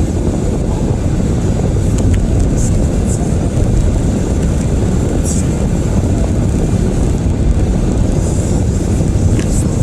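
Steady road and drivetrain noise of a Toyota Prius being driven, heard from inside the cabin: an even low rumble.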